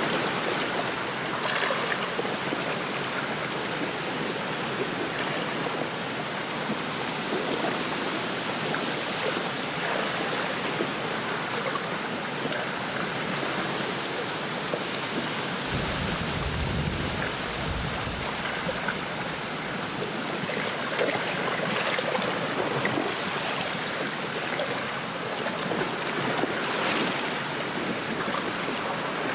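Wind blowing through a reed bed in gusts, with small waves lapping at a lake shore. A brief low rumble comes just past the middle.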